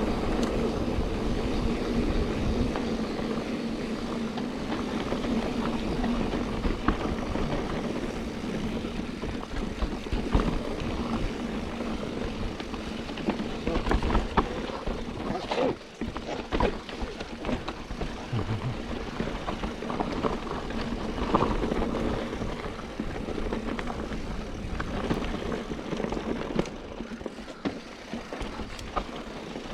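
Mountain bike running down a loose dirt trail: a steady rush of wind and tyre noise, with sharp knocks and rattles as the bike hits bumps, most of them about halfway through.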